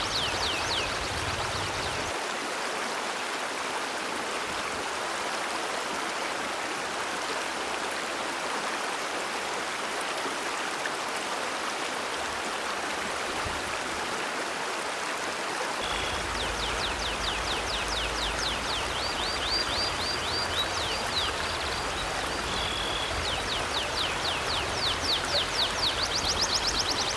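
River water flowing steadily, an even rushing sound. High, rapidly repeated chirping calls start about two-thirds of the way through and run on with short high whistled notes.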